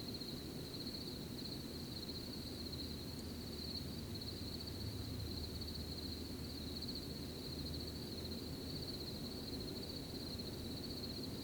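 Night-time cricket chorus: a steady, high, pulsing trill that never lets up, over a low, even rumble of background noise.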